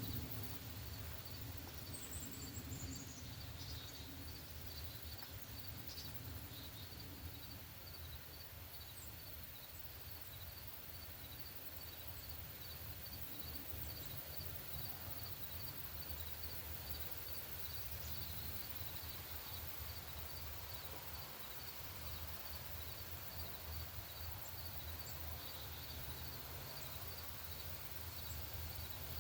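Outdoor ambience: a steady low rumble, a high chirp repeating evenly about twice a second, and a few brief high bird calls, the first a falling call about two seconds in.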